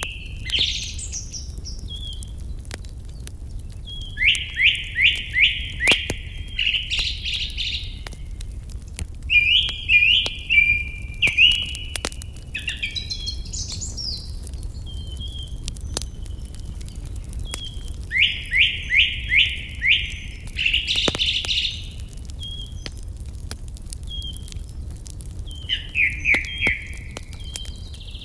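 A songbird sings the same short song four times, roughly every 6 to 8 seconds. Each song is a quick run of notes falling in pitch that ends in a brief flourish. A wood fire crackles sparsely underneath.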